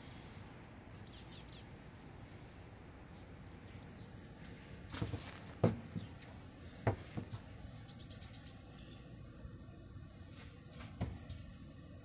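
A small bird chirping in three short bursts of rapid, high-pitched notes: about a second in, at about four seconds and at about eight seconds. A few sharp knocks between the second and third bursts are the loudest sounds.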